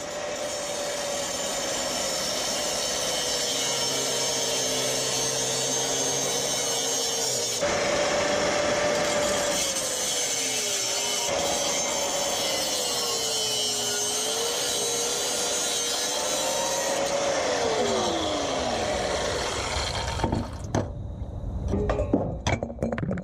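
Handheld power tool cutting through steel exhaust pipe, its motor pitch sagging and recovering as it bites into the metal. Near the end the motor winds down and a few metal clanks follow.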